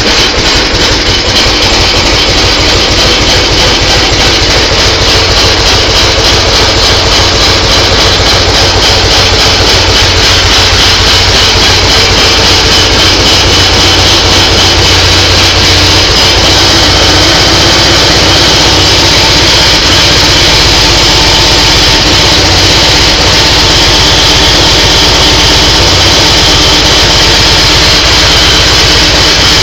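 Kohler M18 twin-cylinder engine of a 1987 Cub Cadet 1811 garden tractor running steadily with a rapid, even firing beat, warming up after a cold start on a cold day.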